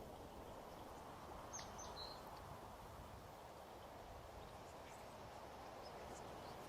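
Faint nature ambience: a soft, steady background hiss with a couple of brief, high bird chirps just under two seconds in.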